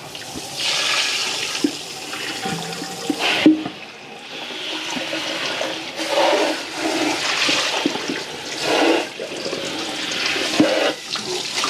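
Water rushing and splashing into a sink, swelling and easing unevenly, with a few light knocks of items against it.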